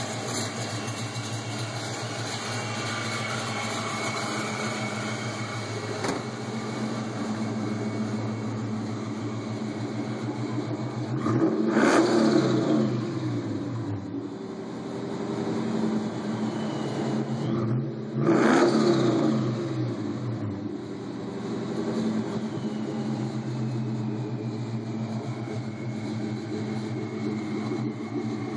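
Ford Mustang V8 with a Bassani X-pipe and Borla mufflers idling steadily, then revved twice, about halfway through and again some six seconds later, each rev climbing in pitch and dropping back to idle.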